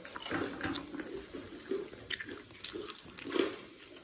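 People biting and chewing food at a table, with scattered light clicks, like utensils or plates.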